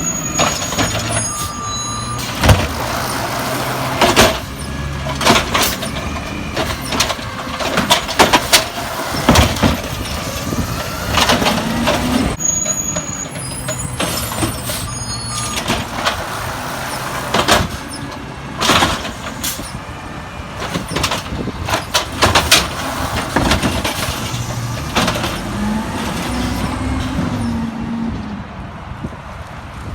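Peterbilt 320 garbage truck working a collection route: the diesel engine runs and revs up and down, with many sharp bangs and knocks from cans and the load being handled.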